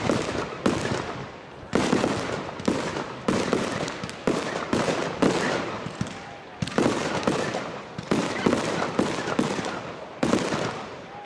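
Fireworks display: aerial shells bursting in rapid succession, a sharp bang roughly every half-second to second, each fading away in a rumbling echo before the next.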